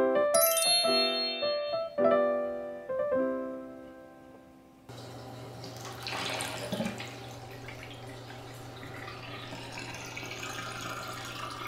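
A light piano-like melody with a brief high chime near the start, fading out; about five seconds in, a steady hiss of running water with a low hum begins and continues.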